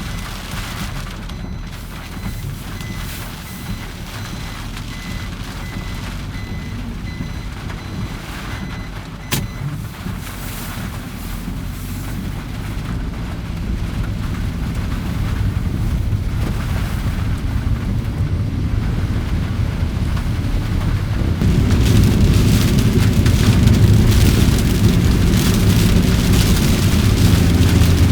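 Typhoon rain and wind: a steady rumble with rain hiss, growing louder and heavier about 21 seconds in. A single sharp click comes about 9 seconds in.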